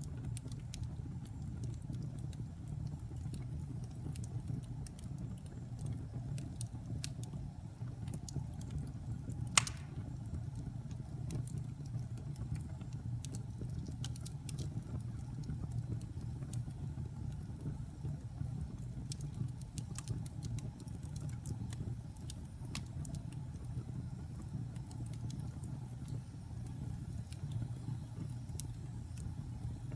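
Wood fire burning in a fireplace: a steady low rumble of flames with scattered small crackles, and one sharper pop a little under ten seconds in.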